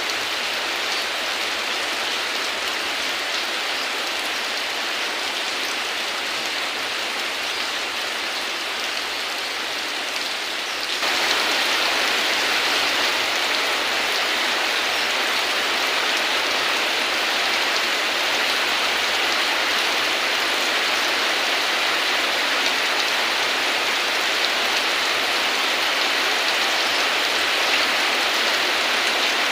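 Heavy rain falling steadily, an even hiss with no thunder. About eleven seconds in it suddenly grows louder and brighter, then holds steady.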